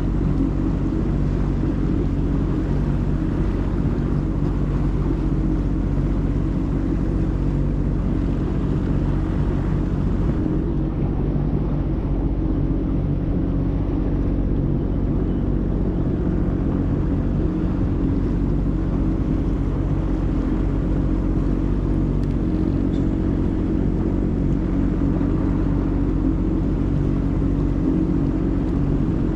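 Jet ski engine running steadily at an even speed, a loud constant drone with no change in pitch.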